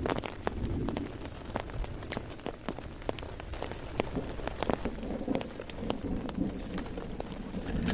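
Heavy rain falling, with many distinct, irregular drop hits over a steady wash of rain noise and a low rumble.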